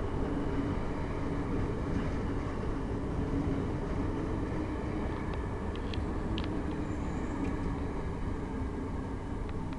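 Bombardier Talent multiple unit moving slowly along the platform: a steady low drone from the train with a held hum, and a few faint clicks in the middle.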